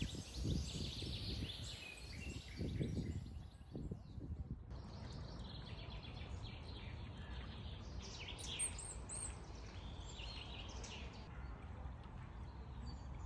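Small birds chirping and singing over a steady low background rumble, with an abrupt change in the sound about five seconds in.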